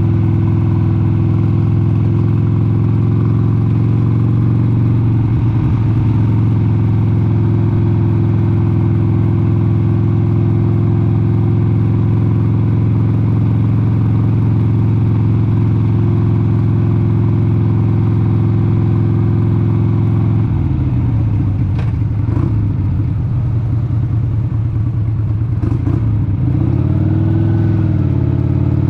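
1996 Harley-Davidson XLH883 Sportster's air-cooled 883 cc V-twin running at a steady cruising note. About twenty seconds in the note turns uneven and slightly quieter, and near the end it briefly rises and falls in pitch.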